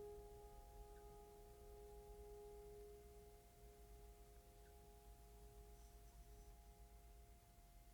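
Faint, bell-like ringing tone made of several pitches held together, slowly fading toward near silence.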